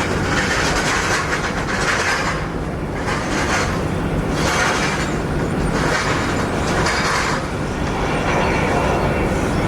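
Jet airliner engines running: a steady low rumble under a hiss that swells and fades about once a second.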